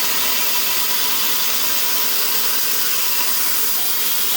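A steady, even hiss at a constant level, with no rhythm or strokes in it.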